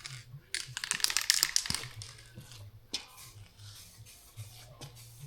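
Aerosol can of base coat paint being shaken hard, its mixing ball rattling in quick strokes, strongest in the first couple of seconds and then dying down.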